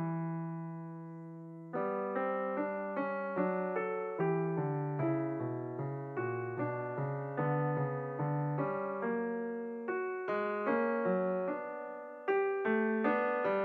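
Background piano music: a held chord, then a gentle run of single notes and chords struck about twice a second, each ringing and fading.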